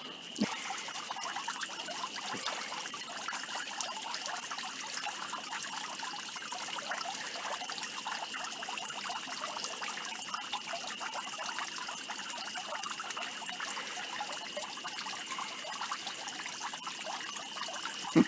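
Steady trickling water, with a continuous high insect trill running under it.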